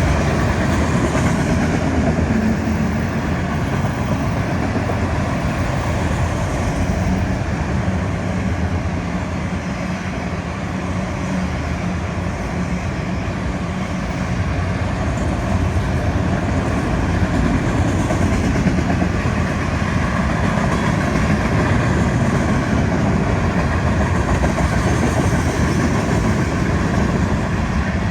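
Florida East Coast Railway freight train's cars rolling past, a steady rumble and clatter of steel wheels on rail.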